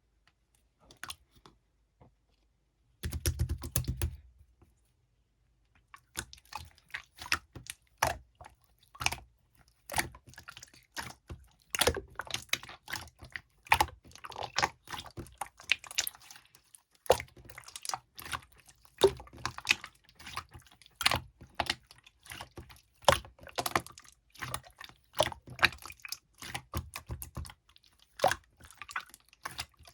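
Clear slime being squeezed and pressed by hands, making an irregular run of sharp, sticky clicks and pops, several a second. About three seconds in there is a brief low rumble of handling.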